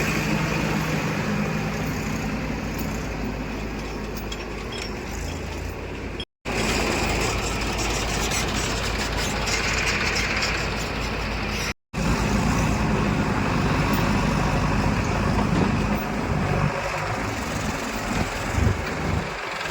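Diesel engines of a backhoe loader and tractors running steadily under work. The sound drops out to silence twice, briefly, about six and twelve seconds in.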